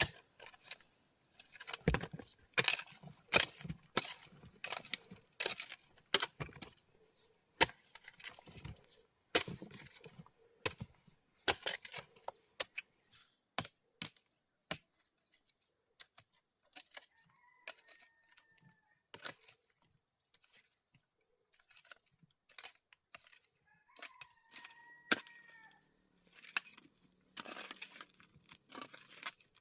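Irregular sharp knocks and cracks of manual stone work, dense at first, sparser through the middle and picking up again near the end. A short bird call sounds twice in the quieter middle part.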